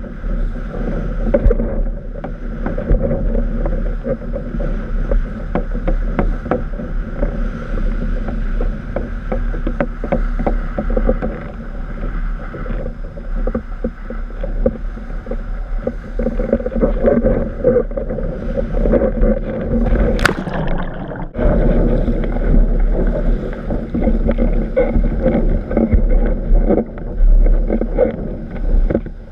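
Wind buffeting the microphone over water rushing and slapping against a windsurf board under sail, a continuous rough rumble. About two-thirds of the way through there is a brief, sharp, high rising sound.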